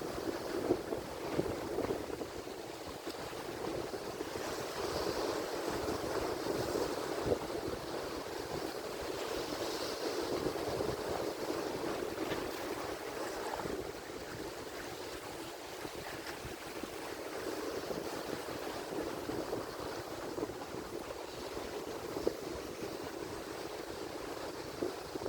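Atlantic Ocean surf: waves washing in with a steady rushing noise that swells and eases slowly, with a few brief sharp splashes.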